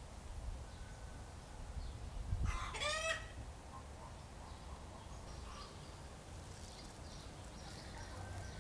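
A rooster crows once, a short rising call about two and a half seconds in. Under it run a steady low rumble of breeze and a few faint bird chirps.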